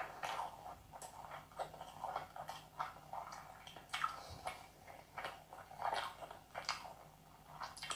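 Close-miked eating sounds of a person chewing mouthfuls of chicken biryani eaten by hand, with irregular short clicks and smacks of the mouth.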